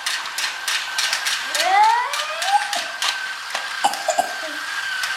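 Battery-powered Duplo toy train running on its plastic track: a steady high motor whine with rapid, regular clicking from its gears and wheels. A child's wordless vocalizing rises and falls over it about two seconds in.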